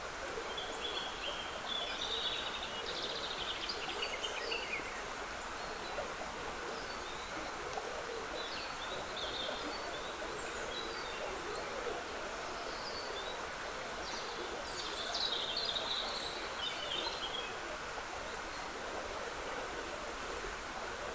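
Woodland stream trickling steadily, with songbirds singing short phrases at intervals over it.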